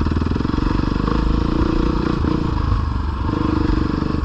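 Dirt bike engine running at low trail speed, its pitch shifting a little as the throttle varies.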